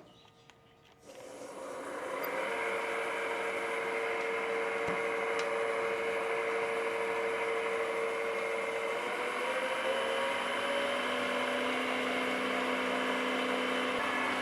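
Oneway wood lathe starting up about a second in and running steadily with a hickory spindle blank spinning on it: a steady motor hum and whine with a few held tones that shift in pitch about two thirds of the way through as the speed changes.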